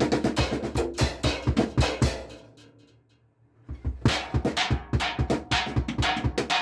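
Raw, unprocessed recording of a drum kit played in a fast, busy pattern. The playing stops about two seconds in and rings out to near silence for about a second, then a new fast drum pattern starts almost four seconds in.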